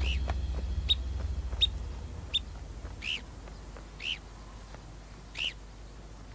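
A wild bird calling repeatedly: a run of short, sharp, high peeps, then slower arched calls about a second apart. Low background music fades out over the first two seconds.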